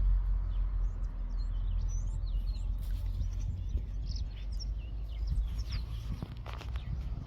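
Birds chirping, many short high calls, over a strong steady low rumble, with a few brief clicks near the end.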